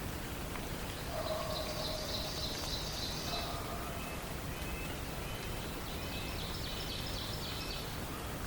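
Forest songbirds singing over a steady hiss: two high, rapidly repeated song phrases, one about a second in and another about six seconds in, with fainter lower whistles between them.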